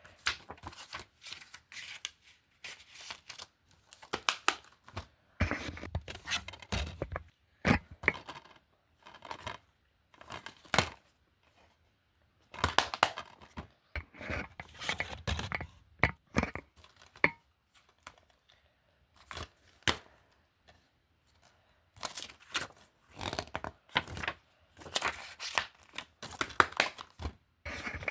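Film and TV disc cases being handled: irregular plastic clicks, knocks and crinkly rustling in clusters, with short pauses between them.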